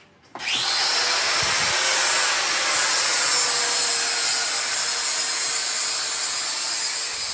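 Angle grinder spinning up about half a second in, then grinding metal in one long steady pass.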